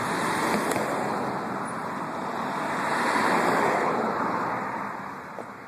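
Rushing rolling noise of a passing vehicle, swelling about three seconds in and then fading away.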